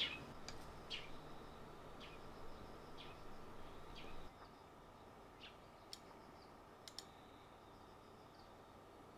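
Small birds chirping faintly, short high chirps about once a second, with two sharp ticks near the end.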